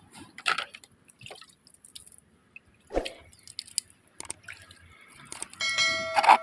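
Scattered drips and small splashes of water, with a knock about three seconds in and a ringing tone near the end.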